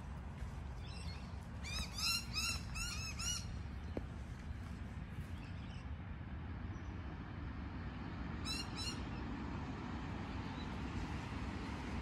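A bird calling in two bursts: a quick run of about five short, arched notes, then three more some six seconds later, over a steady low background rumble.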